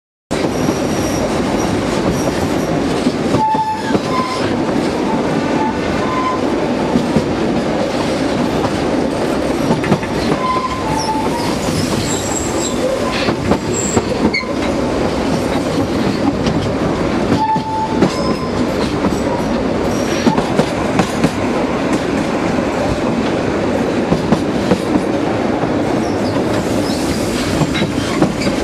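Narrow-gauge (760 mm) train running steadily, its wheels clattering over the track, with short high wheel squeals now and then.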